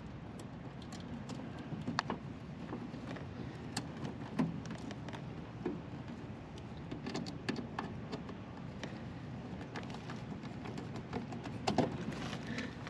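Scattered small clicks and taps from hand tools and wire connectors being handled while wiring a new contactor into an air-conditioner condenser's control panel, with a louder cluster of clicks near the end, over a steady low hum.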